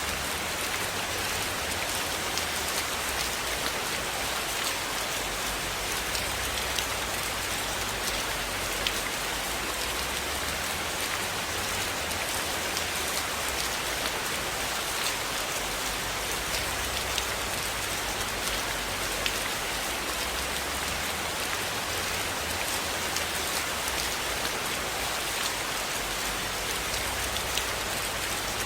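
Steady rain falling, an even hiss with scattered light ticks throughout.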